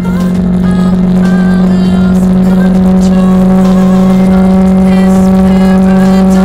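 Bajaj Pulsar 150's single-cylinder engine giving a loud, steady drone at constant cruising speed, with music playing over it.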